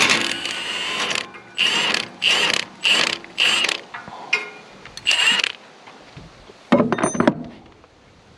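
Impact wrench run in short trigger bursts, hammering on bolts to take off an exhaust bracket: one longer burst, then five short ones. A brief clatter follows near the end.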